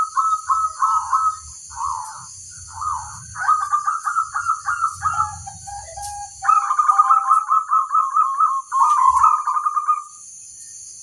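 Zebra dove (perkutut) calling: runs of fast, repeated cooing notes with short pauses, stopping about a second before the end, over a steady high buzz.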